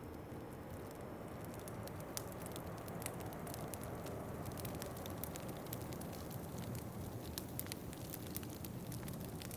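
Wood fire in a fireplace crackling, with irregular sharp pops and snaps that grow more frequent about two seconds in, over a low steady rush of wind.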